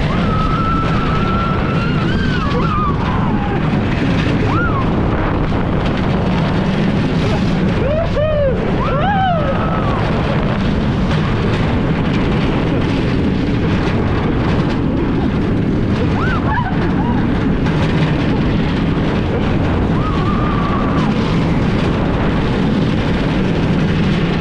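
Steady loud rush of wind on the microphone over the rumble of the Lightning Rod wooden roller coaster's train running on its track. Riders scream and yell at times: near the start, twice about eight and nine seconds in, and again around sixteen and twenty seconds.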